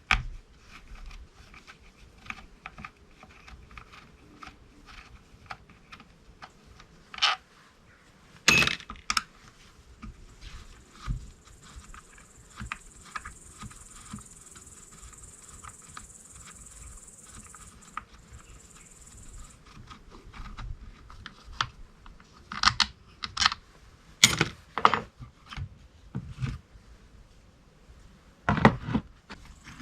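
Hand tools and small metal parts of a chainsaw clicking and clinking as it is worked on and taken apart. There are sharper knocks about eight seconds in, a cluster around twenty-three to twenty-five seconds in, and another near the end. A faint high hiss runs through the middle.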